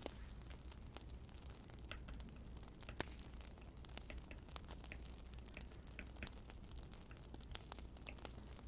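Wood fire crackling in a fireplace: irregular small pops and snaps over a low, steady rumble, with one sharper pop about three seconds in.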